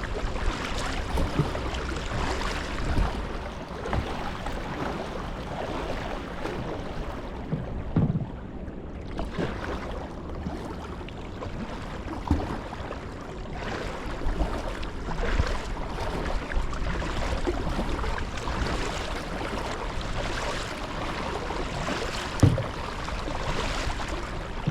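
Water splashing and lapping around a kayak being paddled, with a few short low knocks.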